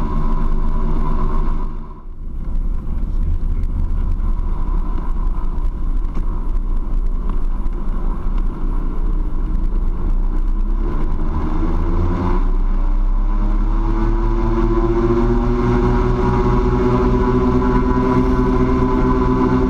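Cessna T310R's twin turbocharged six-cylinder engines and propellers running steadily. About eleven seconds in, their pitch rises over a few seconds as power comes up for the takeoff roll, then holds steady at full power.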